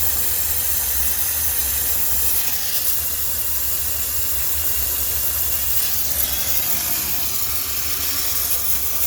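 High-pressure steam cleaner jetting steam with a steady hiss, over a steady low rumble.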